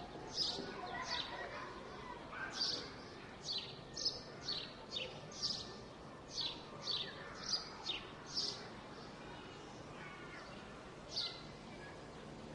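A bird giving short, sharply falling chirps, about two a second, which stop after about eight seconds, with one more near the end, over a steady low background hum of the surroundings.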